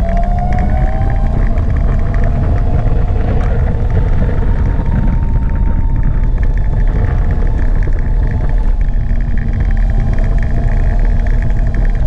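Gogoro 2 electric scooter riding, its electric motor giving a steady whine that rises slightly in pitch about a second in, under heavy wind rumble on the microphone.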